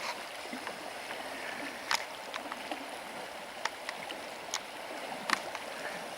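Steady rush of river water, with a few sharp clicks scattered through it.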